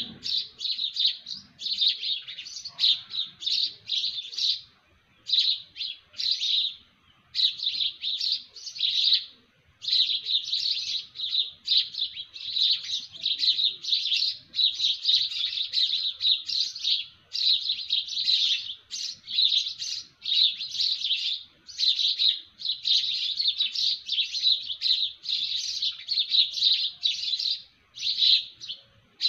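Small birds chirping rapidly and almost without pause, in bursts of quick high notes broken by brief gaps.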